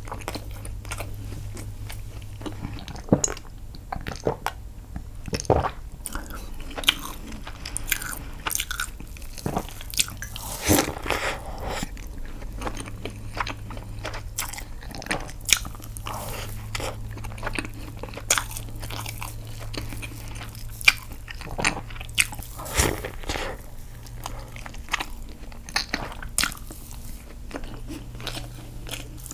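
Close-miked eating: a person biting and chewing bread and dessert, with irregular soft smacks and crunchy bites and no talking.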